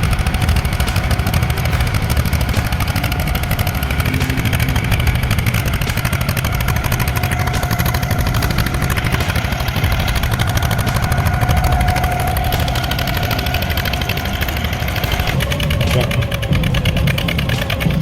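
A heavy truck's engine running steadily, with a change in its tone about fifteen and a half seconds in.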